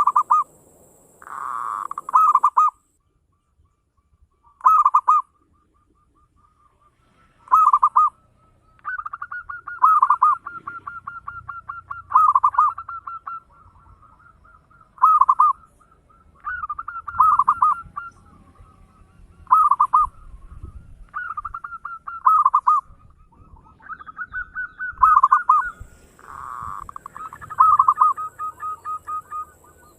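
Zebra dove (perkutut) cooing in repeated phrases. Each phrase is a quick run of short trilled notes ending in loud coos, and the phrases come about every two to three seconds.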